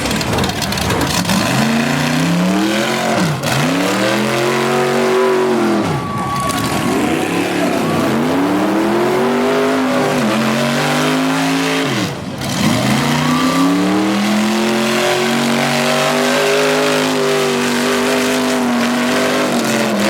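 Big mega-truck engine revving hard. Its pitch climbs and drops about four times, then it is held at high revs for the last several seconds.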